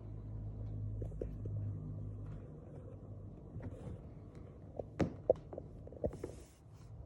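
Light taps and knocks of a kitten playing with things around her, scattered and loudest about five seconds in, over a steady low hum that fades after the first couple of seconds. A short hiss comes about six seconds in.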